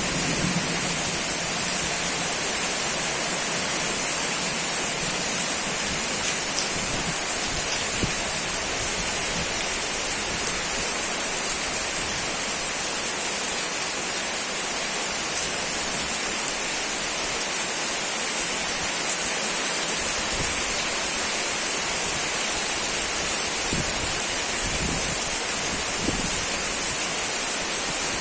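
Steady, even hiss of heavy rain falling, with no breaks or distinct drops.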